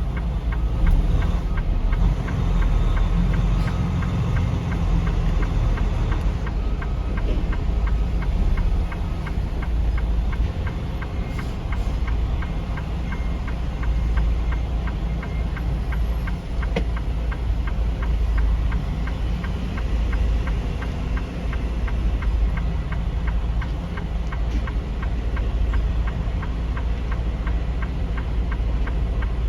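Semi-truck's diesel engine running at low speed while manoeuvring, with a light, regular ticking over the steady rumble.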